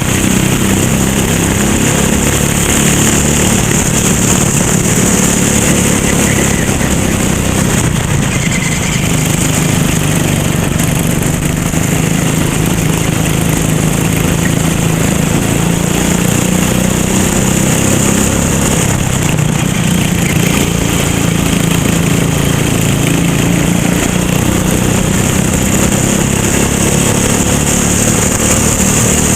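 Racing kart engine running hard, its pitch rising and falling as it accelerates and eases off, over a steady high hiss.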